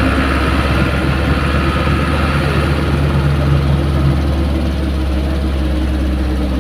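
Engine of an old bus running steadily under way, heard from inside the passenger cabin as a loud low drone with a hiss of road and weather noise; a low humming note joins for a couple of seconds in the middle.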